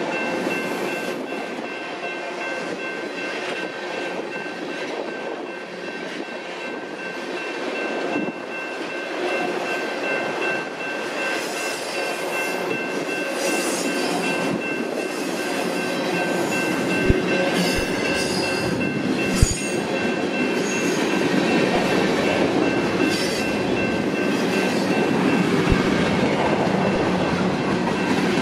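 Freight cars of a long mixed freight train rolling past close by over a grade crossing: a steady rumble and rattle of wheels on rail. A few sharp clanks come in the second half, and a steady high tone runs over it all.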